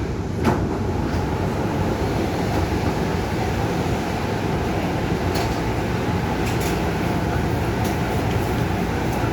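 Cabin running noise of a Korail 311000-series electric subway train: a steady rumble of wheels on track, with a sharp click about half a second in and a few faint ticks later.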